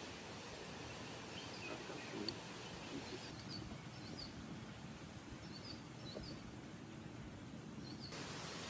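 Steady outdoor background noise with faint, short, high bird chirps repeating through the middle and later part.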